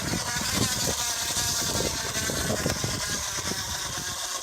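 Empty plastic water bottle pressed against a rolling bicycle tyre, rattling in a fast, uneven buzz as the tyre rubs it, a homemade imitation of a motorcycle engine. The rattle eases off near the end.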